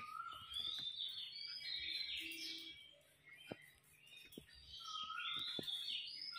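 Birds chirping and warbling in short, high calls, fading for about a second in the middle and returning near the end. A few faint clicks come from a blade cutting potatoes.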